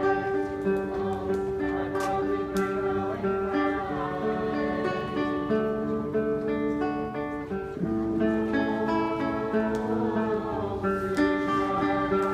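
Acoustic guitar music, with strummed chords changing every second or two.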